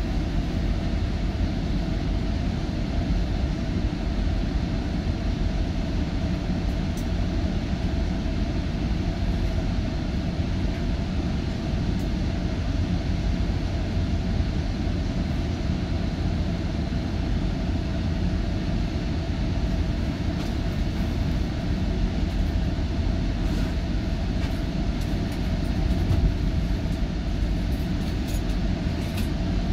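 GO Transit diesel commuter train running, a steady low rumble with a constant hum and faint light ticks.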